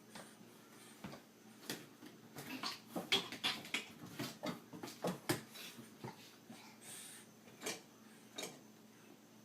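A run of irregular clicks and knocks, like small objects clattering, busiest in the middle and thinning out toward the end.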